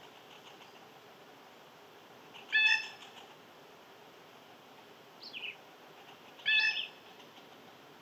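A bird gives two short, loud calls about four seconds apart, each with several stacked pitches, and a fainter falling note between them.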